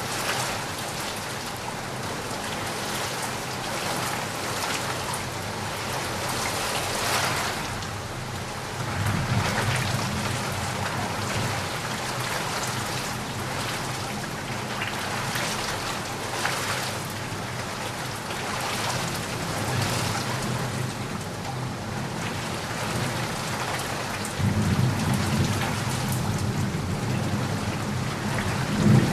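Heavy rain falling steadily, a dense hiss of drops striking surfaces. Two low rumbles swell under it, about nine seconds in and again near the end.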